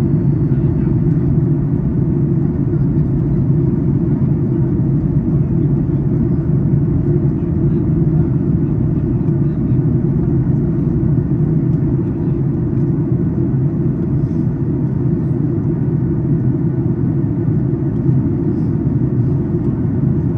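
Steady low cabin rumble of a Boeing 737 MAX 8 in flight, heard from an economy seat: airflow and CFM LEAP-1B engine noise during the descent.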